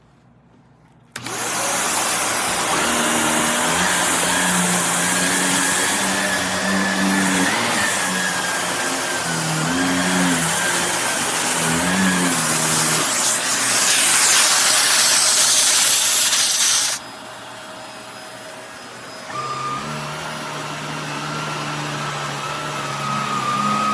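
Shark Navigator Lift-Away upright vacuum switched on and running, its motor pitch wavering as it is pushed over the floor. About 17 s in it becomes suddenly much quieter, then picks up slightly a couple of seconds later.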